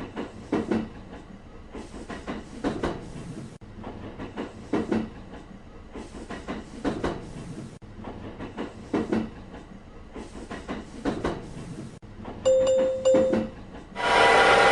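Train passing, its wheels clicking over rail joints: clusters of clickety-clack about every two seconds over a low rumble as each car goes by. Near the end a short steady tone sounds, then a much louder ringing starts shortly before the end.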